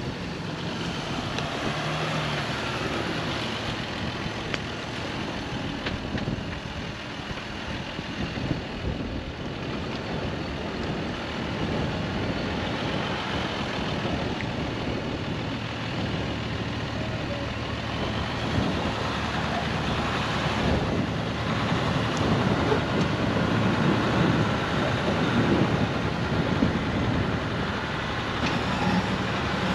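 Jeep engine running steadily on an off-road trail, with steady wind noise on the microphone.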